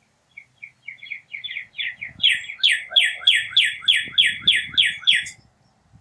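A wild bird singing a long series of about twenty quick, repeated notes, around four a second. The notes start faint and grow loud by about halfway through, then stop abruptly.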